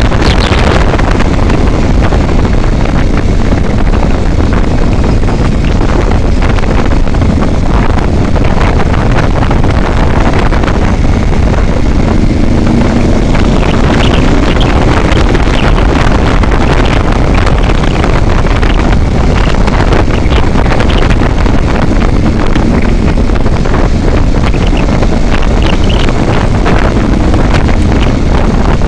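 Steady, loud wind buffeting on the microphone over the running noise of a vehicle driving along a highway.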